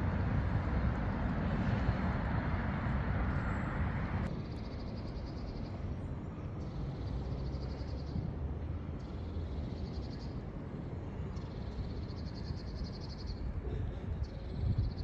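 Outdoor ambience: a steady rush of noise cuts off suddenly about four seconds in, leaving a low background rumble. Over it a small bird sings a series of high, rapid trills, each a second or two long, repeating every couple of seconds. A brief low thump comes near the end.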